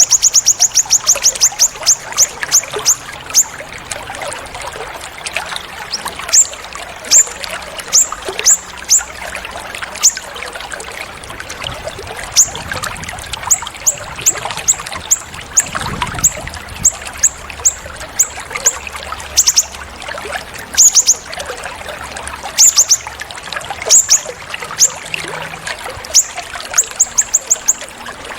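Recorded songbird giving rapid runs of sharp, high chips and trills, a fast trill of about a dozen notes at the start and shorter groups repeating after, over steadily trickling water.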